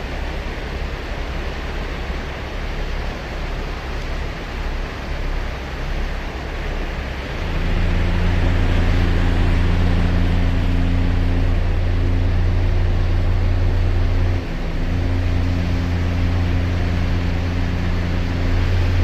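Ocean surf washing on a sandy beach. About seven seconds in, a loud, low droning engine hum joins it, dips briefly, then carries on to the end.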